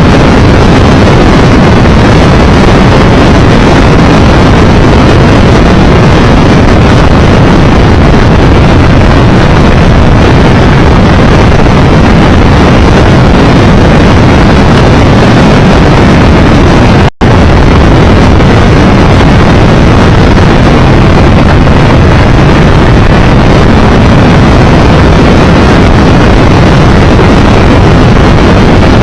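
Steady, very loud wind rush buffeting the microphone of a camera on a moving motorcycle, with road noise underneath. The sound cuts out for a split second about two-thirds of the way through.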